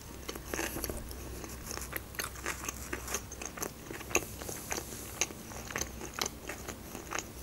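Close-miked chewing of a mouthful of tombik doner (doner kebab in flatbread), heard as a run of small irregular clicks and crunches.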